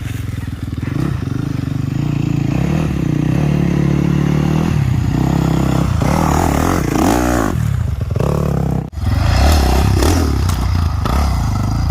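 Four-stroke dirt bike engine running and being revved as the bike is ridden over a log, the pitch rising and falling several times about six to eight seconds in. The sound breaks off briefly about nine seconds in, then the engine runs on.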